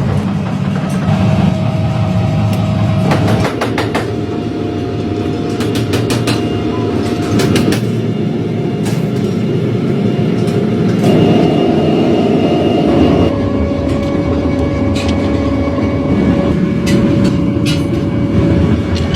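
Heavy factory machinery running in an axle-manufacturing plant: a dense mechanical hum with a steady whine and scattered metallic clicks and knocks. The mix changes abruptly every few seconds.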